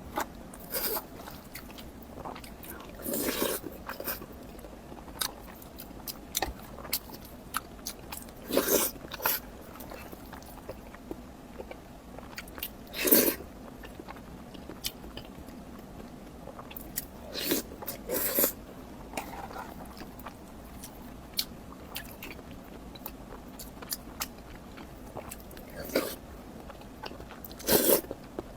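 A person eating close to the microphone: chewing with many small mouth clicks, and a louder bite every few seconds.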